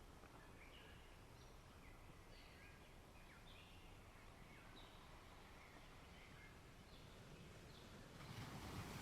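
Faint, scattered chirps of small songbirds over a steady low outdoor hiss, with a soft rush of a wave washing in near the end.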